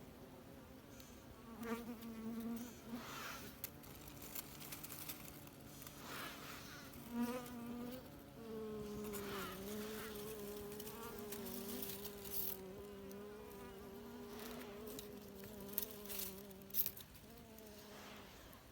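Bees buzzing in an underground nest: a couple of short buzzes, then a steady buzz from about eight seconds in until shortly before the end, with scattered clicks.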